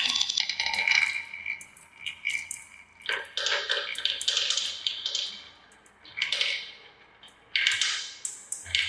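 Marbles rolling and clattering down a plastic marble-run track, with quick clicks and a ringing rattle in several separate runs.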